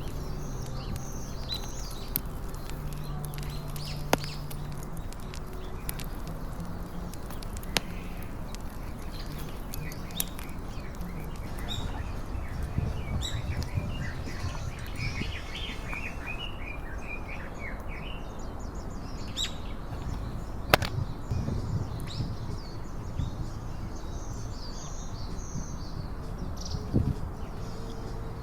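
Small birds chirping and twittering, many short calls that are busiest in the middle stretch, over a steady low outdoor rumble, with a few sharp isolated clicks, the loudest about two-thirds of the way through.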